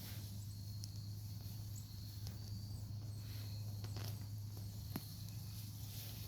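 Soft scrapes and a few light knocks of hands digging in grow-bag soil after a sweet potato root, over a steady low hum and faint insect trilling.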